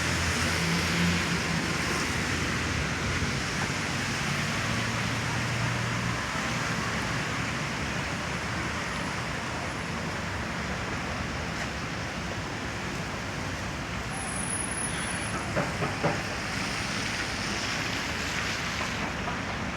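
Steady hiss of rain and traffic on a wet city street, with a vehicle engine's low hum in the first few seconds and a couple of sharp clicks about three quarters of the way through.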